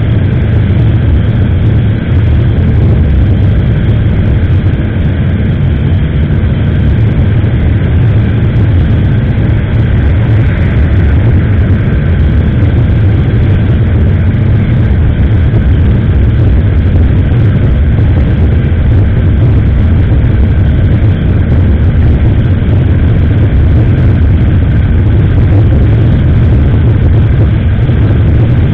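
Riding noise on a motorcycle-mounted action camera: a loud, steady wind rumble over the microphone, with the motorcycle's engine and road noise underneath, unchanging throughout.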